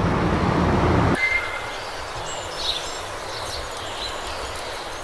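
Loud, steady low noise, of the kind a passing vehicle or train makes, cuts off abruptly about a second in. It gives way to quieter outdoor ambience with a few faint, short bird chirps.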